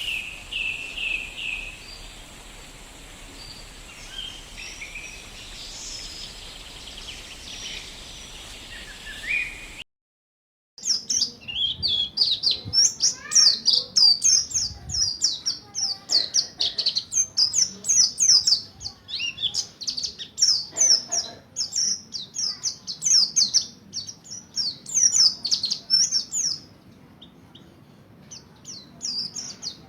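Pleci Buxtoni white-eye singing fast runs of high, thin chirps and trills. After a brief cut about ten seconds in, the song comes louder and denser, then thins out near the end.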